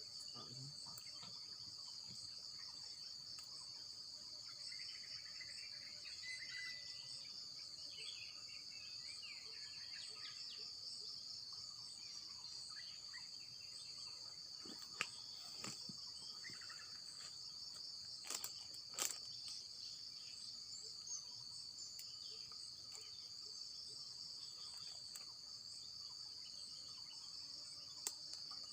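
Steady high-pitched chorus of insects trilling, pulsing evenly throughout. A few sharp clicks stand out, a pair close together past the middle and one near the end.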